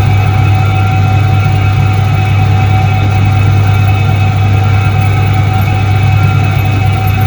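1978 Soviet Iset-3 washing machine running: its electric motor gives a steady, unchanging low hum with a few steady higher tones over it.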